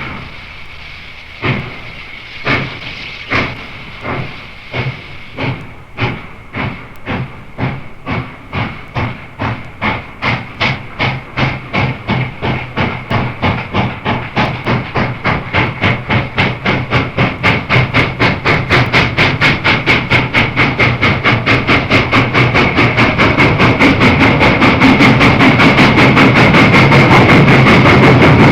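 Norfolk & Western class J 4-8-4 steam locomotive No. 611 starting a train, worked hard with the reverse lever in the corner. Its exhaust beats quicken from about one a second to about four a second and grow louder as it approaches. The pop (safety) valve blows off steadily over the beats throughout.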